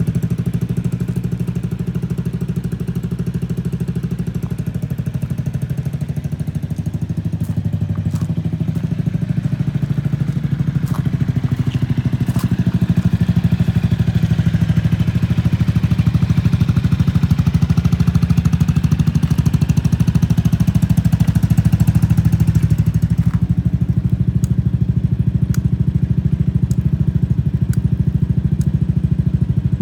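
Honda Fusion scooter's single-cylinder engine idling steadily, a start-up check that it runs. It swells slightly louder for about ten seconds in the middle, with a few faint ticks.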